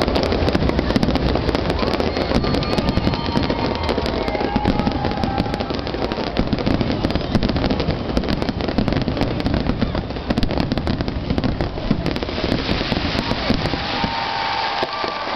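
Fireworks finale: a dense, continuous barrage of booms and rapid crackling from many aerial shells bursting at once, easing a little near the end.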